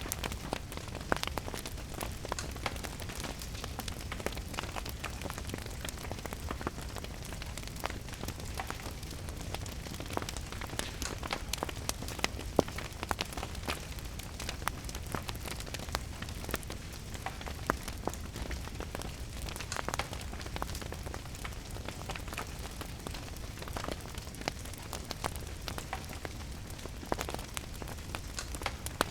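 Wood fire crackling, with irregular sharp pops, over a steady hiss of rain.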